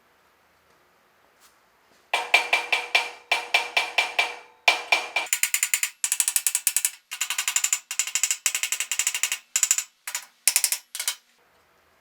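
Rapid metallic clicking in several runs of quick ticks, with a ringing metal tone behind each run, starting about two seconds in and stopping a second before the end.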